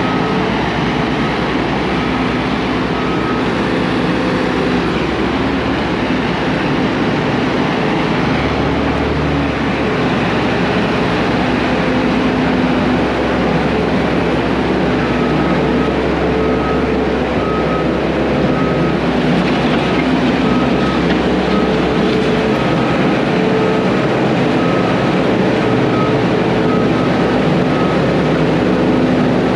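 Heavy diesel equipment running steadily under load, with a backup alarm beeping at about one beep a second at the start and again through the second half.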